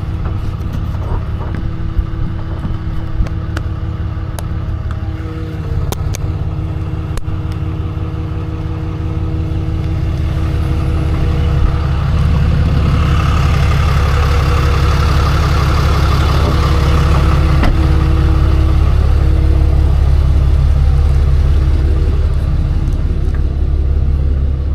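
Tow truck's engine running steadily, then faster and louder from about ten seconds in as its hydraulics are worked to lower the towed pickup, with a few sharp clanks along the way.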